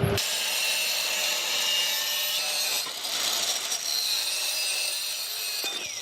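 Steady, high scraping noise of a hand or power tool working material, like sawing or sanding, with no low rumble; it cuts in and out abruptly.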